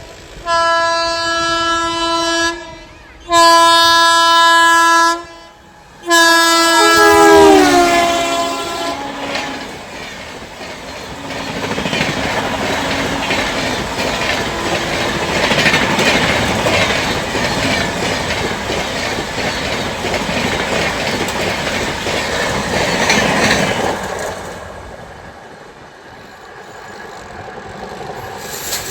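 An Indian Railways train sounds its horn in three long blasts, the last one falling in pitch as it comes by. The train then rushes past for about fifteen seconds, its wheels clacking over the rail joints, before fading away.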